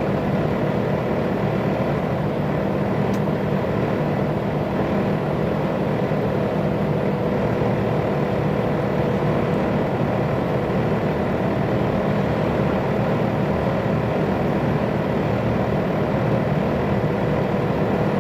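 Diesel engine of a heavily loaded 10-ton commercial truck pulling steadily under load up a hill, heard from inside the cab together with road and tyre noise. It is a constant drone with a faint steady whine.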